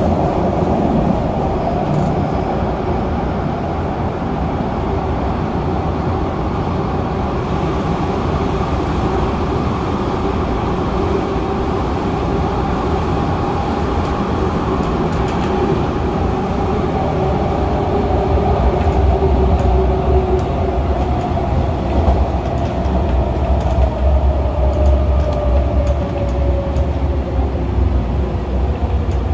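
MTR Tung Chung line CAF electric train in motion: steady rail running noise and rumble, with a motor whine that slowly falls in pitch toward the end.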